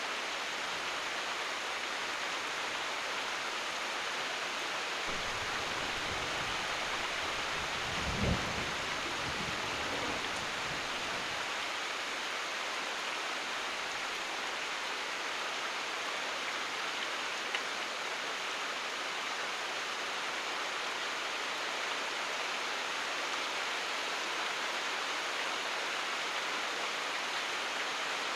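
Steady heavy rain pouring. A low rumble of thunder comes in about five seconds in and fades by about eleven seconds, loudest a little past eight seconds.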